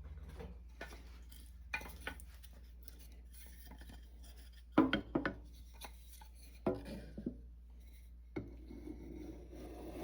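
Drill press running with a steady low hum while the bit scrapes and clicks now and then against the toolbox's thin sheet metal.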